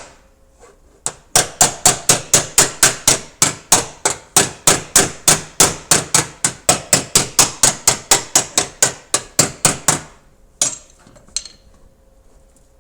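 Panel-beating hammer tapping out a dent in a Toyota Mark X's sheet-metal body panel: a quick, steady run of sharp strikes, about three or four a second, that stops about ten seconds in, followed by two single taps.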